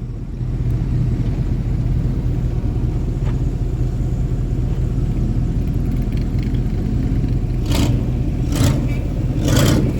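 Mud truck's engine running at a steady low rumble, with three short loud bursts of noise about two seconds apart near the end.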